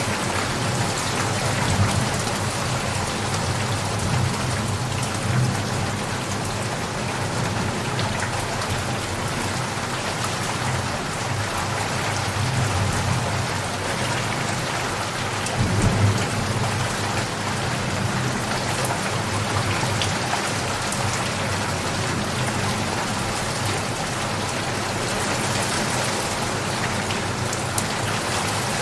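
Steady downpour of rain with low rolling thunder underneath, the rumble swelling briefly a little past the middle.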